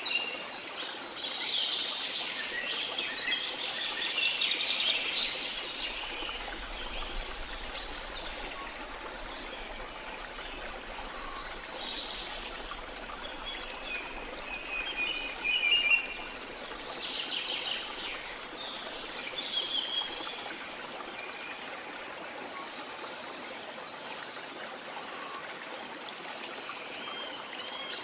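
Steady rush of a waterfall with many birds calling and chirping over it. The birdsong is dense for the first several seconds, then thins to scattered chirps and whistles.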